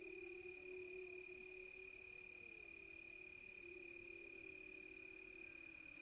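Crickets trilling in one steady high tone, with distant wolves howling in long, overlapping, wavering low howls that slowly glide in pitch.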